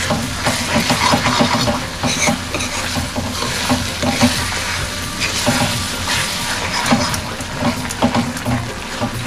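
Ground onion-and-coconut masala paste frying in oil in a pan, sizzling steadily, while a spoon stirs and scrapes through it in irregular strokes.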